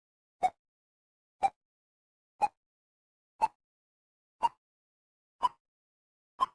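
A series of short pitched beeps from a cartoon sound effect, seven of them one per second, each a step higher in pitch than the one before, with silence in between.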